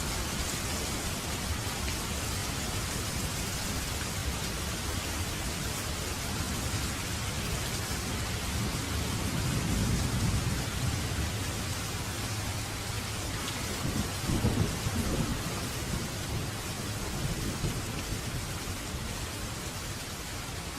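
Steady rain with thunder. A low rumble swells about halfway through, and a second, sharper rumble follows a few seconds later.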